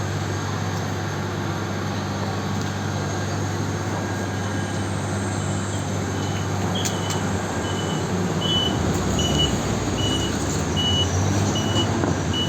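City bus engine running with a steady low hum that grows louder in the second half, while a short high electronic beep starts about a third of the way in and repeats roughly every three-quarters of a second.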